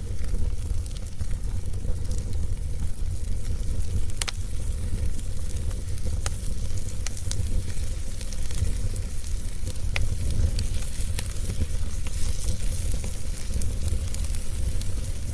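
Wood fire in a fireplace crackling, with a steady low rumble and hiss and scattered sharp pops, the loudest about four and ten seconds in.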